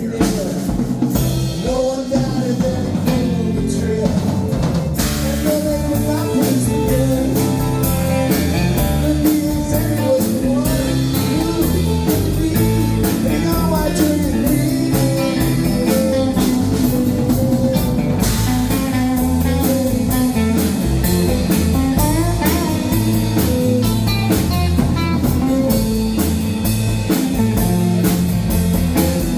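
Live band playing a blues-rock number, with electric guitar over a steady drum-kit beat.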